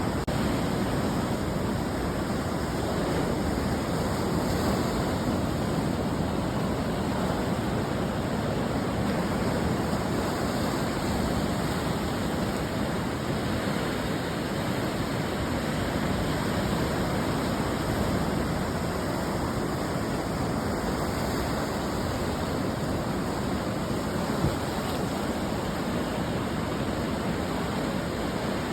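Ocean surf washing onto the shore: a steady rush of breaking waves with no single crash standing out.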